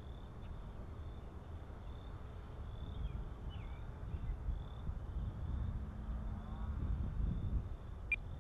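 Wind buffeting the microphone with an uneven low rumble over a steady, high chirring of evening insects. The small electric motor of the RC Carbon-Z Cessna 150 is heard faintly as it passes, with a rise and fall in pitch late on, and there is a single sharp click near the end.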